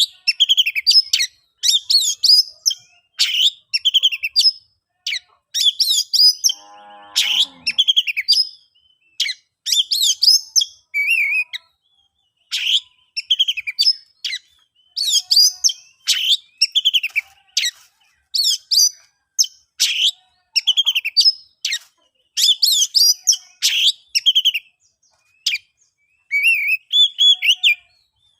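Oriental magpie-robin (kacer) singing its full, clear song: short, high, rapidly varied whistled and chattering phrases repeated about once a second with brief pauses. A lower, buzzy note breaks in briefly about seven seconds in.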